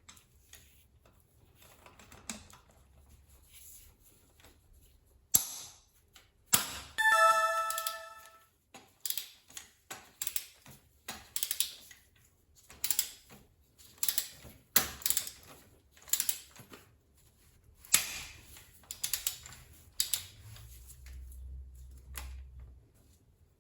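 Metal clinks and knocks of hand tools and engine parts, a separate sharp strike every half second to a second, with a short ringing tone about seven seconds in.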